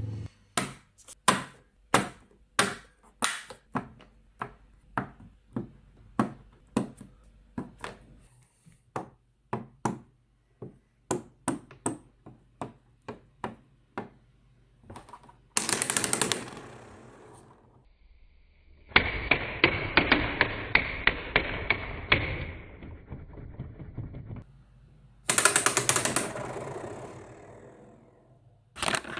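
Neodymium magnets snapping together in a long run of sharp clicks, one after another. In the second half they set off stretches of fast rattling buzz as they vibrate against each other, the longest with a faint metallic ring.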